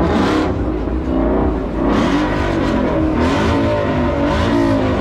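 Car engine revving repeatedly over a heavy low rumble, its pitch rising and falling several times.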